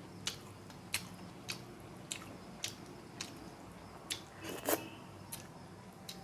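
Close-up eating sounds: a person chewing and biting food, with a short sharp crunch about every half second to second and a louder, longer one a little past halfway.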